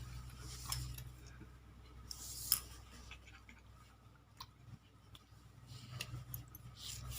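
A cat eating, with short crisp crunches and chewing clicks every second or two over a low steady hum.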